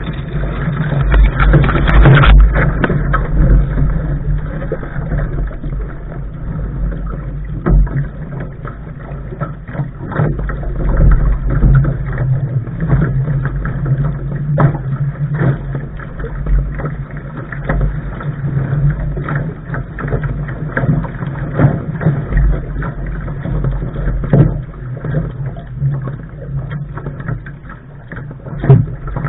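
A Lark sailing dinghy under way, recorded at the bow: a gusting low rumble of wind on the microphone with water rushing past the hull and frequent short knocks and slaps.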